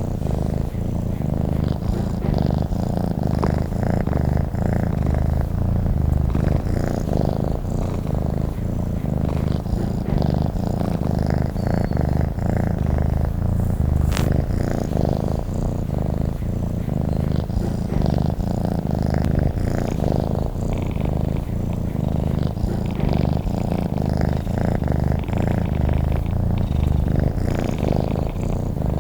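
Cat purring steadily in a low, continuous rumble, with one faint click about halfway through.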